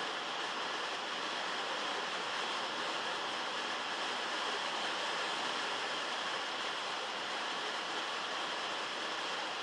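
Heavy rain drumming steadily on a metal roof, heard from inside the shed as a dense, even hiss.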